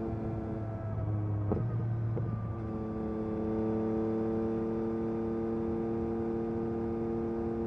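Yamaha MT-09 SP's three-cylinder engine through an Akrapovic carbon racing exhaust, running at a steady cruise. About a second and a half in, the engine note breaks briefly with a click, then settles back to an even drone.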